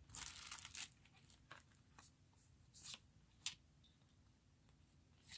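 Near silence with faint handling noises: a soft rustle in the first second, then a few light taps and clicks.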